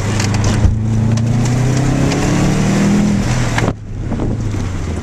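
Subaru flat-four engine pulling hard, heard from inside the cabin during an autocross run, with wind and road noise; its note climbs slightly, then the throttle is lifted sharply a little under four seconds in and it falls to a lower, quieter running note.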